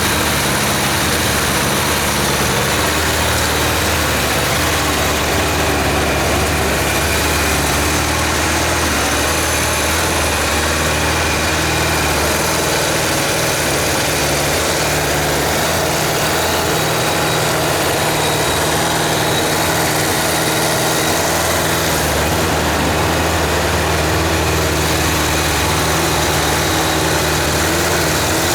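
Kawasaki GPZ550 (ZX550A) air-cooled inline-four engine idling steadily.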